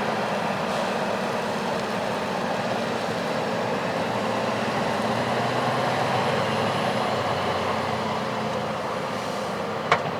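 Heavy farm machinery running steadily, an engine hum under a dense mechanical noise. A single sharp click comes near the end.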